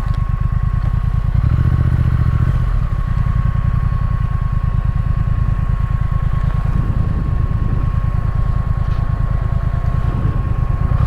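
Triumph Speed Twin motorcycle's parallel-twin engine running steadily at low revs, its engine note swelling slightly a couple of seconds in.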